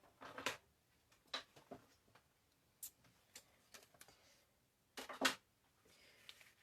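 Scattered, irregular clicks and knocks from a manual die cutting machine and its cutting plates being worked and handled, with two sharper knocks close together about five seconds in.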